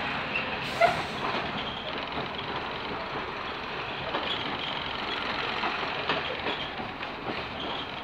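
Running noise heard on board a Class 121 diesel railcar: a steady rumble of wheels on track with scattered clicks over the rail joints. A sharp knock comes about a second in, and faint short high squeaks recur throughout.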